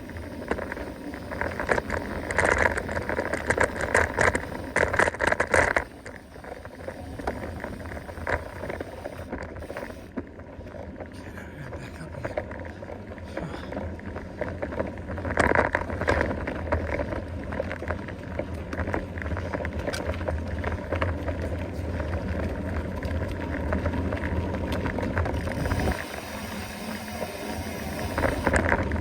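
Mountain bike being ridden over a woodland trail: a steady rolling rumble of tyres on dirt, with the bike rattling and clicking over bumps, busiest in the first few seconds and again about halfway through.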